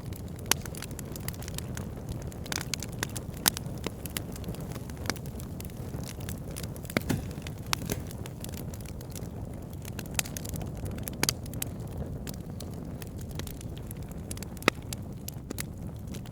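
Wood fire burning: a steady low rumble of flames with frequent sharp pops and crackles from the logs, a few louder snaps among them.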